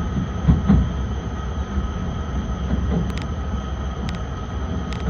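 Akita Shinkansen Komachi train heard from inside the passenger car: a steady low running rumble with a few soft knocks about half a second in, as the train slows into the station.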